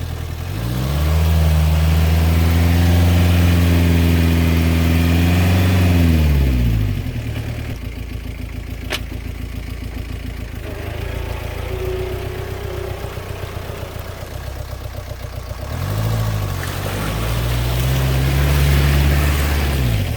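The Jeep Cherokee XJ's VM Motori 2.5-litre turbo-diesel four-cylinder working under throttle. Its pitch rises, holds steady for several seconds and drops back to a low, uneven running sound, with one sharp click in the middle. It pulls up again for a few seconds near the end and falls off.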